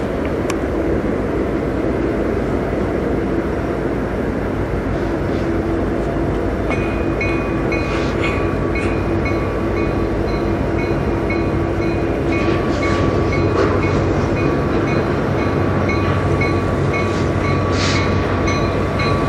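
Diesel-hauled freight train approaching, with a steady rumble. About seven seconds in, a bell starts ringing at an even pace.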